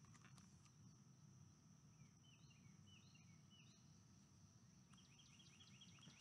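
Near silence: faint outdoor ambience with small bird chirps, a quick run of them about two to four seconds in and another near the end, over a steady faint high-pitched tone.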